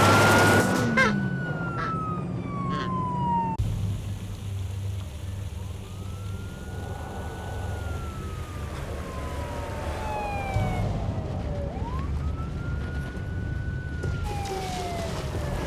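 Police car siren wailing in long sweeps, each rising quickly and then falling slowly, over the low drone of a car engine. The sound changes abruptly twice, as if cut.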